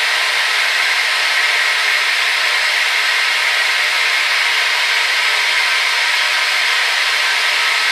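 Hair dryer running steadily: a constant, even rush of blown air, brightest in the upper-middle range, with no low rumble and a few faint steady tones from the motor.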